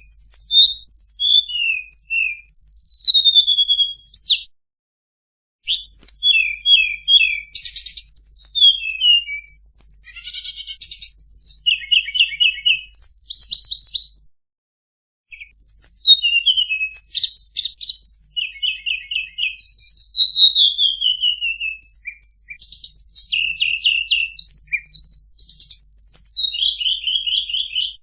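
Tledekan songbird singing long, rapid phrases of high chirps, trills and falling whistles, broken by two short pauses; a masteran song recording of the kind played to caged birds to teach them song.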